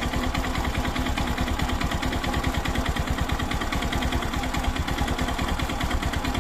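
Suzuki Access 125's single-cylinder four-stroke engine running with a rapid, regular knock, which the mechanic puts down to a damaged connecting rod bearing.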